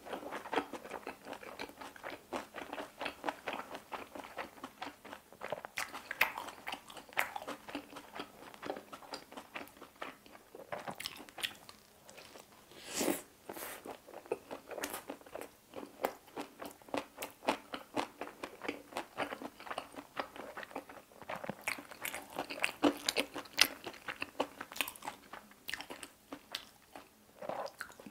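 Close-miked chewing and biting of pizza: irregular crunchy, wet mouth sounds that keep going, with a brief louder noise about halfway through.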